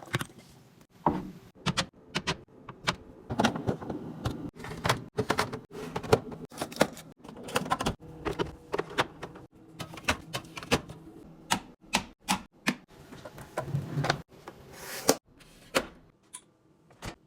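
Irregular clicks, taps and knocks of plastic fridge organiser bins and items being handled and set down, over a faint steady hum.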